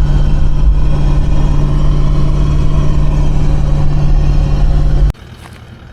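Car engine and road noise while driving, a steady low drone that holds at an even pitch, then cuts off suddenly about five seconds in.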